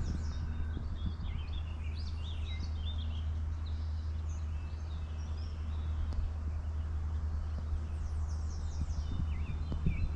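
Songbirds chirping and calling on and off, with a quick run of falling chirps near the end, over a steady low rumble.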